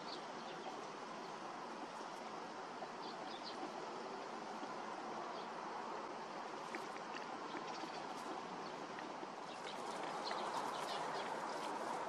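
Short high bird calls, scattered and coming more often near the end, over a steady rushing background noise that grows a little louder about ten seconds in.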